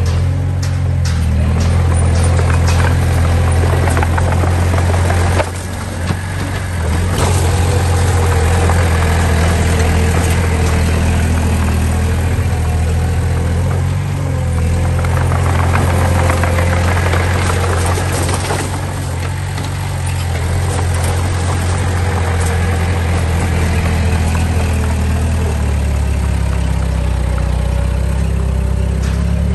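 Diesel engine of heavy earthmoving machinery running steadily at a low, even rumble, with occasional sharp metallic clanks over it.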